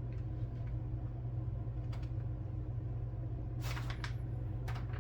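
Steady low hum with a few small clicks and brief rustles, from small plastic model-kit parts being handled on a workbench.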